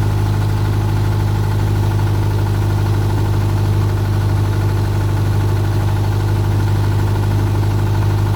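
Steady low machine hum with an unchanging pitch, like an engine idling, holding the same level throughout.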